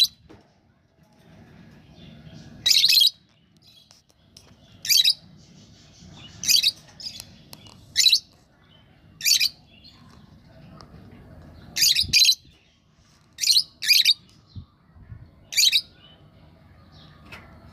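Pet lovebirds giving short, high-pitched chirping calls, about ten of them spaced a second or two apart, some in quick pairs.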